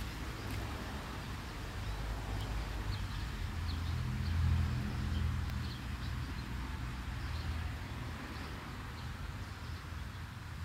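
Light rain pattering on concrete, a steady hiss, with a low rumble underneath that swells about four to five seconds in and then eases.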